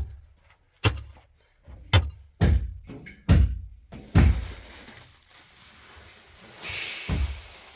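A series of about six heavy knocks, roughly one a second, each ringing briefly, followed near the end by a short burst of hiss.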